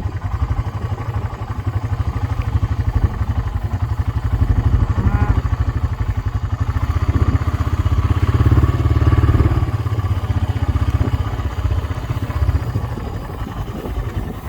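Four-wheeler (ATV) engine running steadily with a fast low putter, swelling a little louder about two-thirds of the way through.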